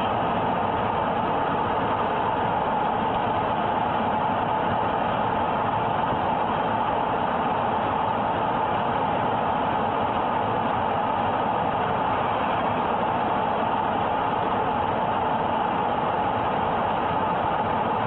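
A car's engine idling while parked, heard from inside the cabin as a steady, even noise with no change.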